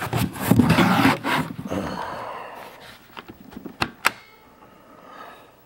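Plastic laptop battery being unlatched and pulled out of a Gateway laptop: scraping and rubbing of plastic for about two seconds, then two sharp clicks about four seconds in.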